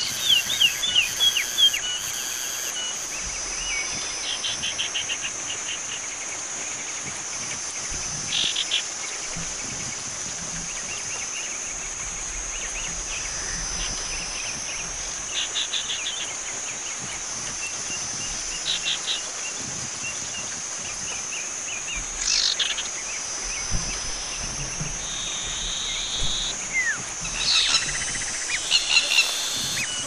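Common iora calling: short runs of quick chirps every few seconds, over a steady high-pitched insect drone.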